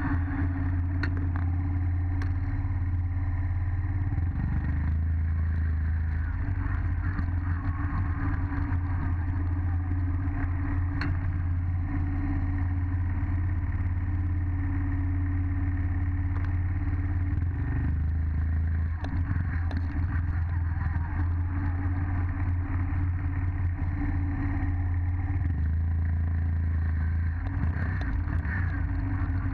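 Dirt bike engine running steadily, its note shifting a little every several seconds.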